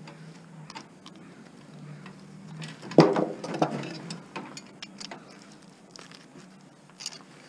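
Clinks and knocks of hand tools on metal as an electric motor is being dismantled, with one sharp clang about three seconds in that rings briefly.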